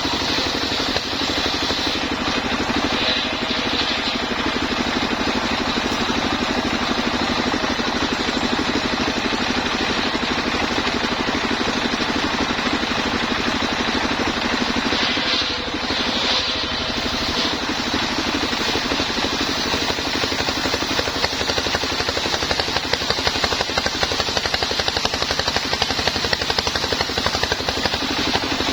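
Engine of a homemade sawmill running steadily, with a brief dip in level about halfway through.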